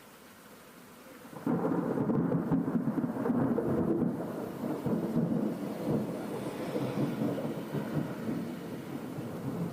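Thunder: a sudden loud clap about a second and a half in, then rumbling on unevenly and slowly fading.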